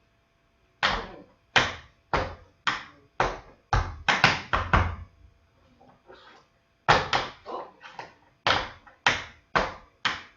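Tap shoes striking a hard floor in a string of sharp taps, about two a second, with a brief pause about halfway through: a tap step being danced out, stomps, heels, brushes and toe taps.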